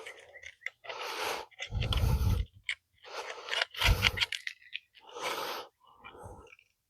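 A magnet run around inside the bottom of a transmission case, scraping against the metal in a series of short strokes about a second apart, two of them with a dull thud, while it is used to fish for broken chunks behind a clunking noise.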